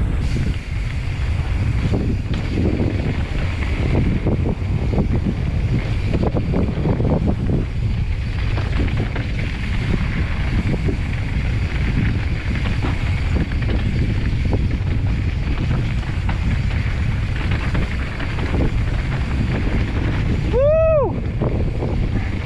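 Wind buffeting the microphone and a mountain bike's tyres and frame rattling over rough dirt trail at speed. Near the end, a brief high-pitched squeal rises and falls.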